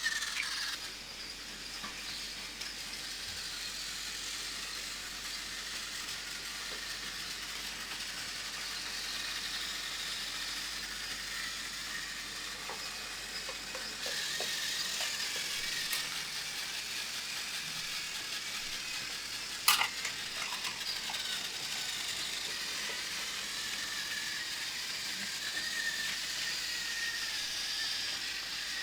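Battery-powered Plarail toy trains running on plastic track: a steady high whirring rattle of small motors, gears and wheels. It grows slightly louder about halfway through, with one sharp click near the end.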